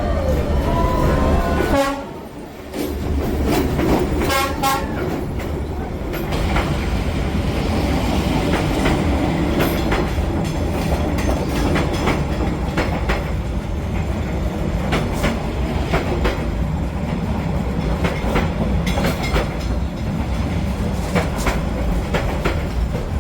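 Train passing close by: a horn sounds about four seconds in, then a long steady rumble of the train with wheels clattering on the rails.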